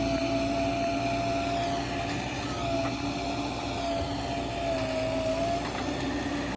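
JCB 3DX backhoe loader's diesel engine running, with a steady whine that dips slightly in pitch now and then. It cuts off suddenly at the end.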